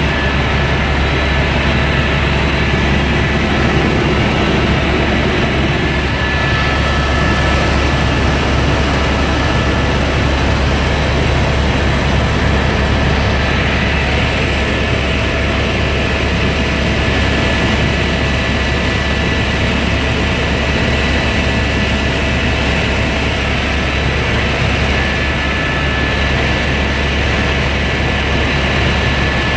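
Helicopter in flight: a steady, unbroken drone of engine and rotor with a constant high whine above it.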